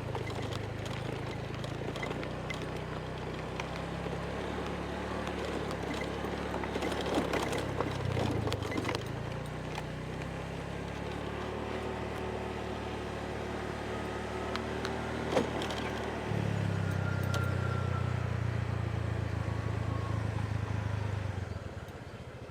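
Motorbike engine running steadily on the move, under road and wind noise. It gets louder for about five seconds near the end, then falls back.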